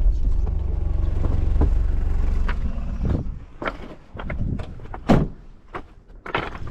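Car engine running with a steady low rumble, cut off about three seconds in, followed by scattered knocks and clatter.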